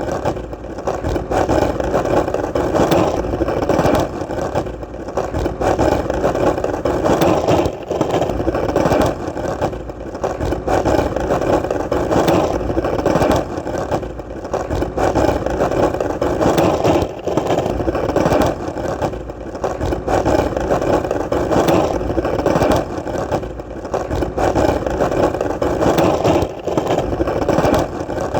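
Skateboard wheels rolling over hard ground: a steady, continuous rumble, dipping briefly every couple of seconds.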